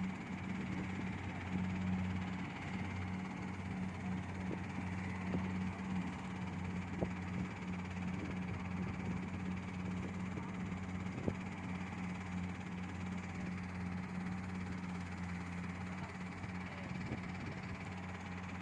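Rice combine harvesters running steadily while cutting, a constant low engine hum, with a couple of faint sharp ticks.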